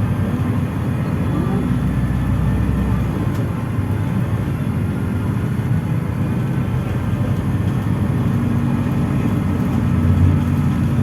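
PAZ-422320-14 Citymax 9 city bus driving, its engine and road rumble heard from inside the passenger cabin. The engine pitch shifts a little near the start and again late on.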